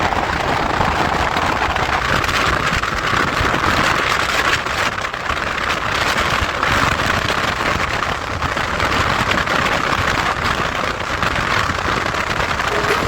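Steady rushing wind and road noise from riding a Royal Enfield Himalayan 411 motorcycle, with wind buffeting the microphone.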